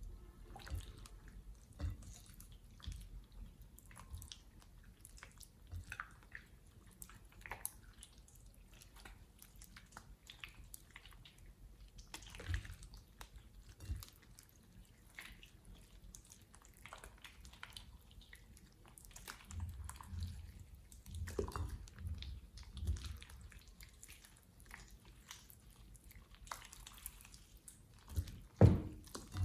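Slime being squished, poked and stretched by hand, making quiet, irregular sticky squelches, small clicks and air pops, with one louder pop near the end.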